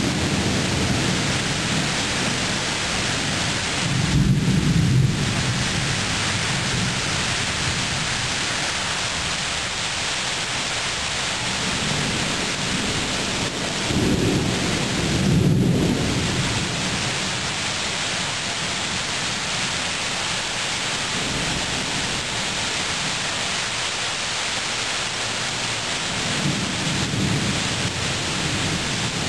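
Thunderstorm: steady heavy rain hiss, with low rolls of thunder rumbling in three times, the strongest about four seconds in and again around the middle, and a weaker roll near the end.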